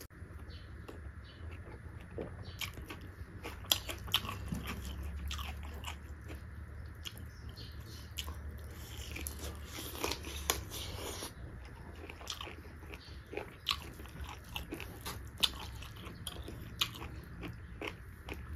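Close-miked chewing and biting of a mouthful of beef curry, with many short irregular clicks and smacks of the mouth.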